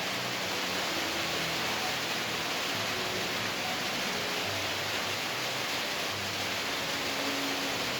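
A steady, even hiss of noise, unchanged throughout, with faint short low tones underneath.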